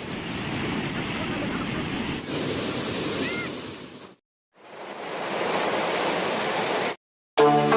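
Steady rush of a waterfall's falling water, heard in two stretches: it fades out about four seconds in, fades back in and cuts off abruptly near the end. Music with a steady beat starts just after.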